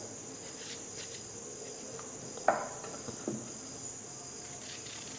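Crickets trilling steadily at a high, even pitch, with a few soft knocks, the clearest about two and a half seconds in.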